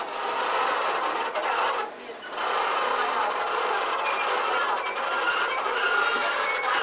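Passenger train running along the track, a steady rattling clatter of wheels and cars with many short, high squeaks from the wheels on the rails. It dips briefly about two seconds in.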